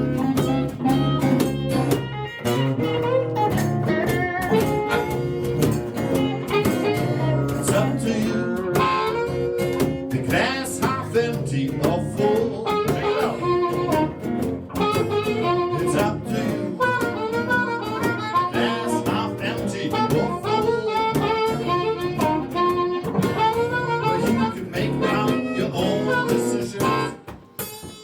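Live acoustic blues: harmonica playing bending, wailing lines over strummed acoustic guitar, with a short drop in level just before the end.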